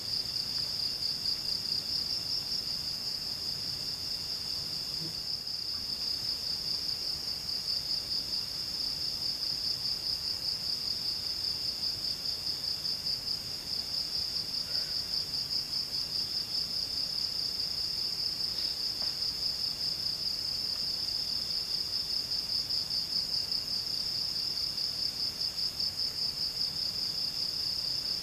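Insect chorus in the forest: a continuous high-pitched trill with a fast, even pulse, and a fainter second trill starting and stopping beneath it.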